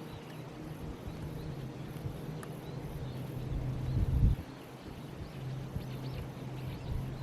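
Outdoor ambience: a steady low hum, a gust of wind buffeting the microphone about four seconds in, and faint bird chirps later on.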